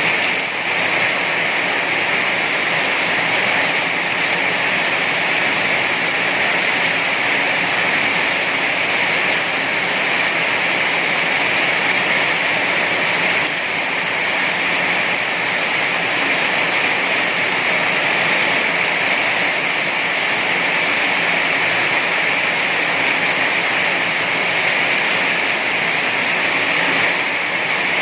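Heavy rain pouring down steadily, a dense, even rush of noise with no breaks.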